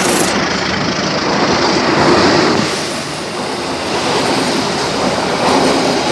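Penataran passenger train passing along the track, its wheels running over the rails in a steady, loud rolling noise.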